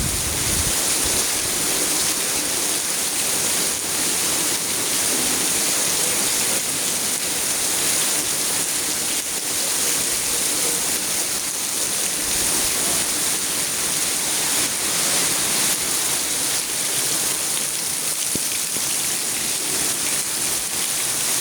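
Rain falling steadily, an even hiss of water with no let-up.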